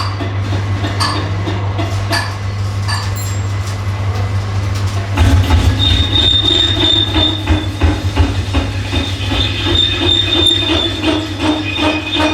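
Metalwork on a steel truck rim: over a steady machine hum, metal is struck about once a second. About five seconds in, a louder, high metallic squeal starts, with rapid clattering, as the rim is worked by machine.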